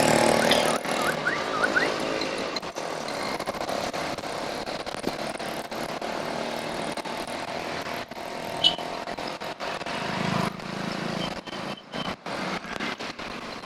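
Street traffic heard from a moving bicycle. A motor vehicle passes loudly at the start, then steady traffic and road noise continue. Near the end the recording breaks up in short dropouts and crackles from radio interference in the camera's mic adapter.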